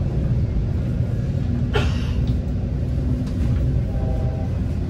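Steady low rumble of a Metra commuter train rolling along, heard from inside a passenger car, with a brief sharp sound about two seconds in.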